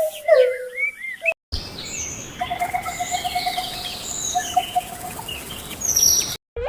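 Whistled gliding notes, then after a brief cut, birds chirping over a steady background hiss, with a fast, even trill through the middle.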